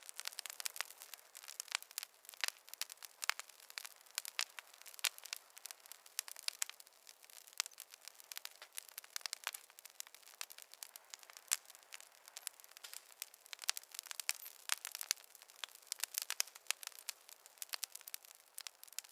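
Fireplace fire crackling: a dense, irregular stream of sharp pops and snaps with no low roar beneath them. A few pops stand out louder, one a little past halfway.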